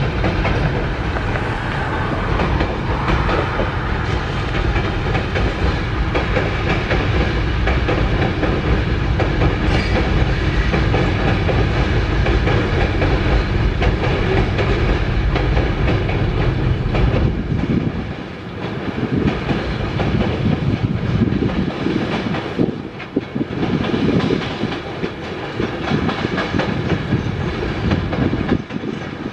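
Freight train cars rolling across a railway girder bridge: a continuous rumble of steel wheels on the rails with clickety-clack over the joints. About two-thirds of the way through the deep rumble eases, leaving a lighter, rattling clatter.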